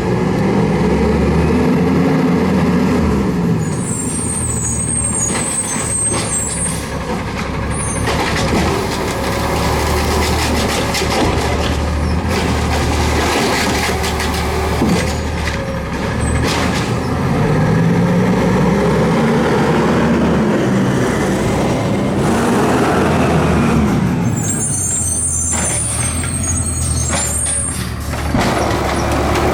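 Garbage truck running, its diesel engine revving up and falling back several times. Two bursts of high hissing air come a few seconds in and again near the end.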